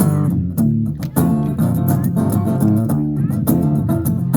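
Guitar playing the accompaniment of a rock-Americana song in a steady rhythm of plucked notes and chords, with a bass line underneath.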